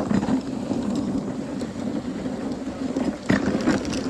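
Dog sled runners sliding steadily over a packed snow trail, with a sharp knock about three seconds in.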